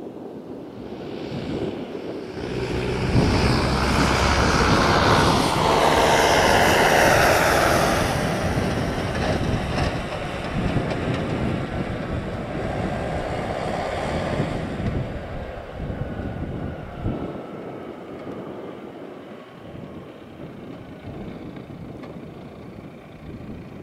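Rolls-Royce Cullinan prototype's V12 engine under hard throttle on snow, growing loud over the first few seconds with its pitch sliding down, then running on fainter as it fades.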